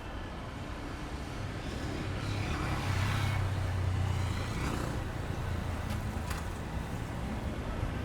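An engine passes by: its low rumble swells from about two seconds in, peaks around three to four seconds, then fades.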